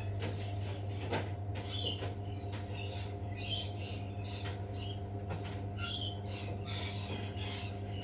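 Short, scattered bird calls and squawks, many brief high-pitched notes coming irregularly throughout, over a steady low hum.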